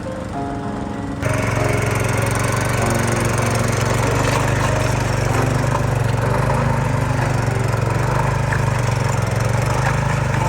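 Small engine running steadily at high revs, cutting in abruptly about a second in.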